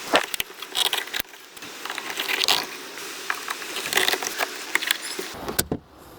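Plastic trim clips being pulled out of a car's roof one at a time by hand: an irregular run of sharp clicks, rattles and scraping, ending with one sharp click.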